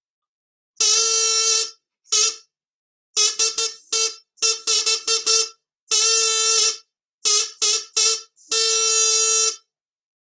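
A horn-like instrument sounds a single note over and over, in a rhythm of long held notes, single short notes and quick runs of short repeated notes.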